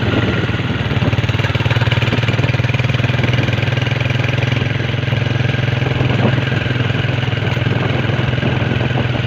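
Motorcycle engine running steadily, a low even drone with a rapid firing pulse and some wind and road noise on top.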